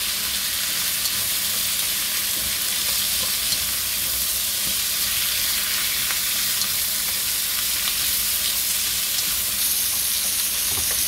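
Chicken wings sizzling steadily in hot oil as they are stir-fried with wooden chopsticks, with a few light taps of the chopsticks against the pan.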